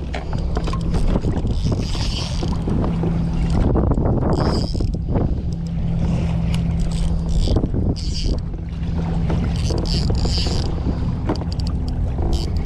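Strong wind buffeting the microphone with a steady low rumble, while water splashes against a kayak's hull every two to three seconds.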